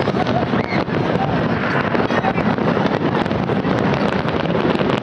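Continuous rumble and crackle of a fireworks display, with no single bang standing out, mixed with wind buffeting the microphone.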